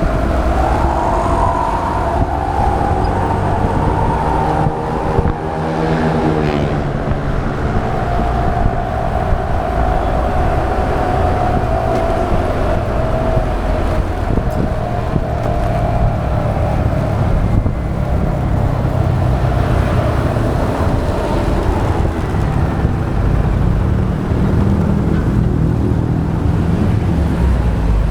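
Motorbike riding in city traffic: its engine runs steadily with the pitch rising and falling, over a low wind rumble on the action camera's microphone. Other road vehicles pass by, one with a pitched engine note that bends past about five seconds in.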